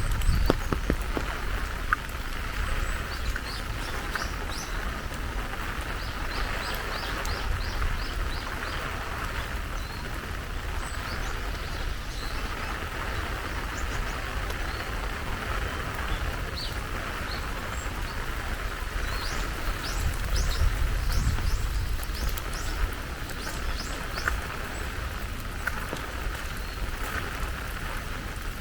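Steady rain falling, with a bird giving runs of short, high chirps throughout. A low rumble swells at the start and again about twenty seconds in.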